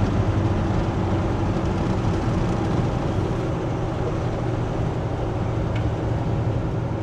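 Steady exhaust rumble and engine drone of a custom 1983 Chevy C10 pickup on the move, heard from inside the cab with the windows up and sound deadener fitted, so it comes through muffled.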